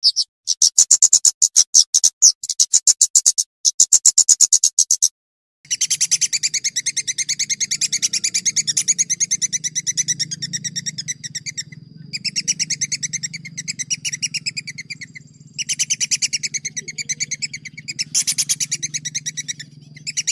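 Songbird song: rapid, evenly repeated high chirps, then after a sudden break a long run of fast rolling trill notes with a few short pauses. This is typical of the long 'roll' phrases used to train competition songbirds.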